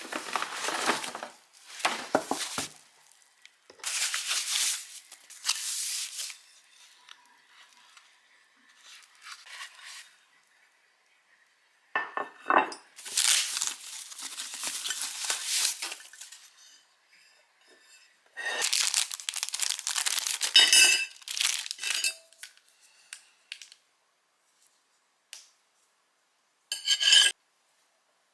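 Kitchen dishes and utensils being handled in irregular bouts, with rustling and scraping and a few sharp clinks that ring briefly.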